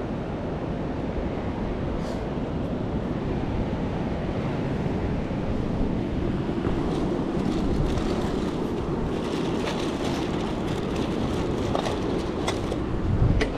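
Steady rushing of wind on the microphone and surf at a rock jetty, with a few faint clicks in the second half.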